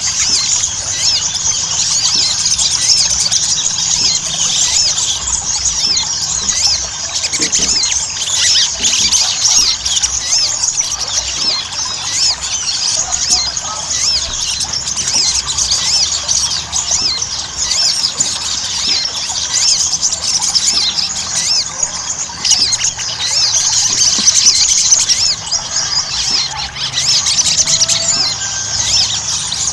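Sogon (little spiderhunter) singing: a nonstop stream of rapid, high-pitched chattering trills and squeaky notes, the bird in full excited song.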